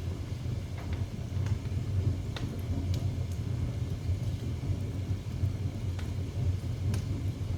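Wood fire burning in a fireplace: a steady low rumble with occasional sharp crackles and pops.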